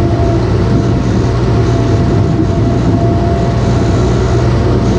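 Heavy engine running steadily under load, with a thin steady whine above its rumble.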